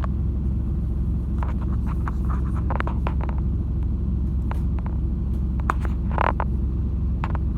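Cabin of a MAZ-206 city bus under way: a steady low rumble from the engine and road, with scattered short rattles and clicks from the interior. The bus is one whose ride the passenger describes as having huge vibration.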